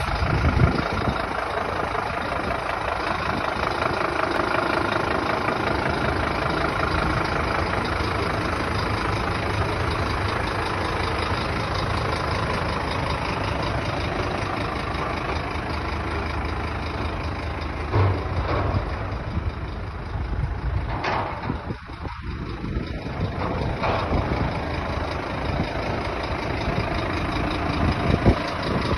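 Scania P230 truck running steadily, a dense, even mechanical drone, with a few short knocks and a brief drop in level about two-thirds of the way through.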